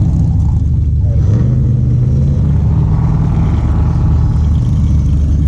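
A car driving slowly, with a steady low rumble of engine and road noise.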